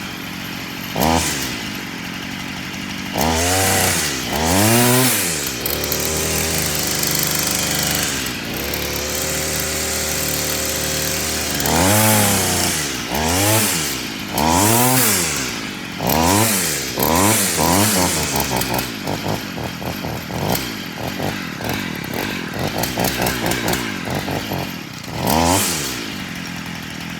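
Stihl FS 46 string trimmer's two-stroke engine running and being revved over and over, each blip of the throttle rising and falling in pitch, with a steadier stretch of idling between the bursts in the first half and quicker, shorter blips later on.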